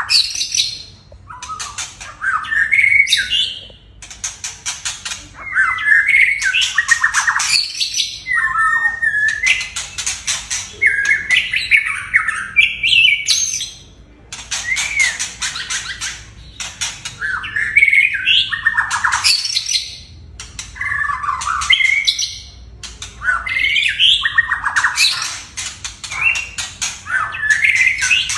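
A white-rumped shama and a Chinese hwamei singing loudly against each other, a near-continuous stream of varied phrases with gliding whistles, fast rattling trills and harsh notes, broken by short pauses every few seconds.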